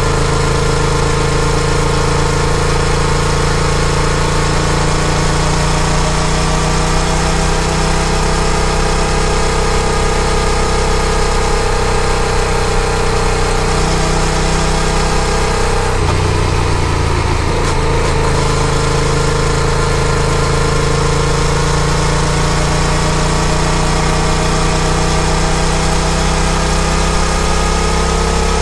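Yamaha FZ-07's parallel-twin engine running under way, its pitch drifting slowly up and down, over a steady rush of wind and road noise. The engine note breaks up briefly about sixteen seconds in, then settles again.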